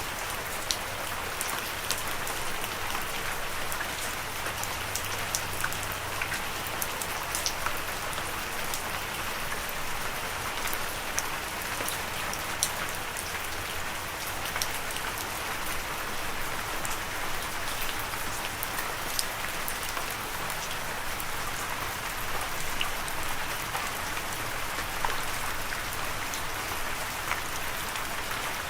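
Steady rain falling, with many individual drops tapping sharply on a surface.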